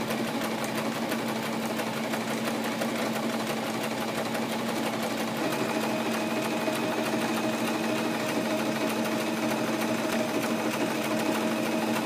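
Electric home sewing machine stitching through fabric at a steady speed: a continuous motor hum with rapid, even needle strokes.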